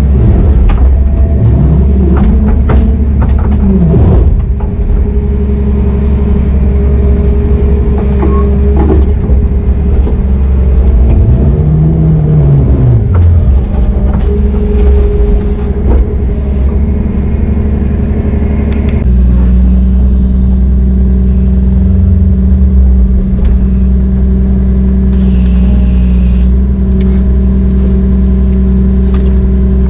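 Heavy diesel machinery running steadily under load. A whine rises and falls twice, there are scattered clanks and knocks, and the engine note changes about two-thirds of the way through.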